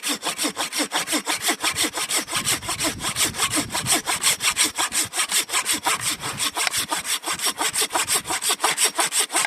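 Hand saw cutting firewood, rapid even back-and-forth strokes, several a second.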